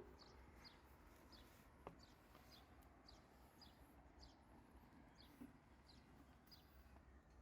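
Near silence, with a faint bird chirping over and over: short, high, falling chirps about twice a second.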